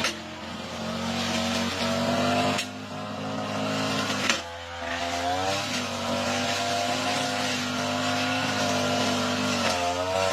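Lawn mower engine running steadily while cutting thick, overgrown grass, its pitch sagging and recovering under the load. There are two abrupt breaks in the sound, a few seconds apart.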